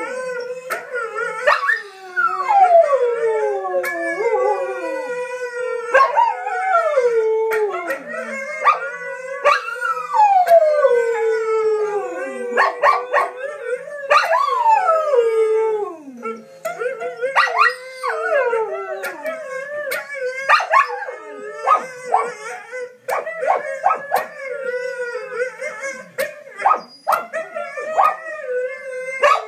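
Siberian husky howling along with other dogs' howls, long falling howls overlapping one another, with short yips scattered among them.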